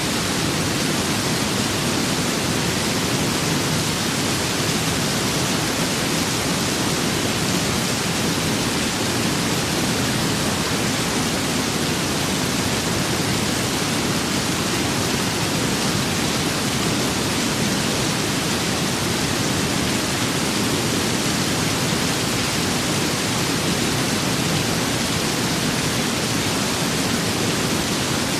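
Steady rain and wind: an even, unbroken rushing hiss with no separate drops or thunder claps standing out.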